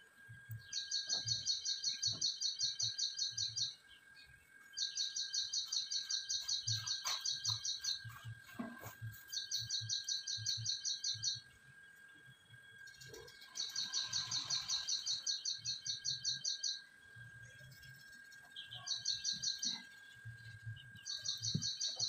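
Small bird chirping in rapid high trills, in six bouts of one to three seconds with short pauses between, over a faint steady high whine.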